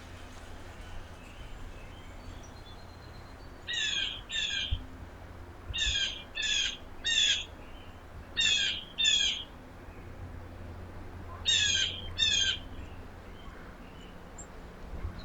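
A bird giving loud, harsh calls, nine in all, in quick groups of two or three starting about four seconds in.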